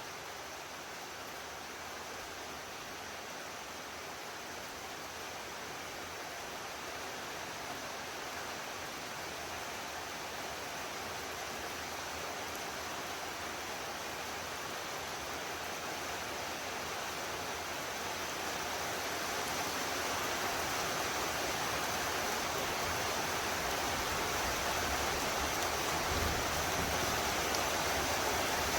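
Heavy rain pouring steadily, growing gradually louder and heavier.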